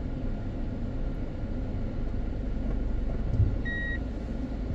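Steady low road and engine rumble from inside a moving car. About three and a half seconds in there is a short low thump, followed by a brief single high beep.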